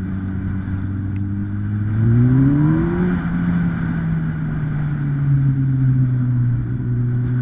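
2008 Kawasaki ZX-10R's 998cc inline-four engine running steadily, then rising in pitch about two seconds in and holding at a higher engine speed that slowly eases.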